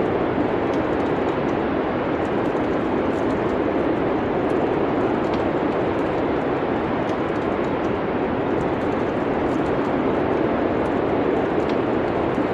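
Steady rushing of wind, an even, unbroken noise, with faint scattered crackles of a wood fire.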